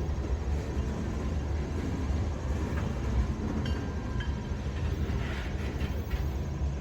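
Freight cars of a long mixed freight train rolling past, a steady low rumble of wheels on rail, with a few short high squeaks from the wheels a few seconds in.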